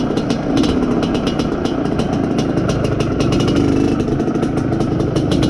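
IZh Planeta Sport motorcycle's two-stroke single-cylinder engine running under way during break-in, with the pitch shifting a little partway through. Many short sharp clicks run over the engine sound.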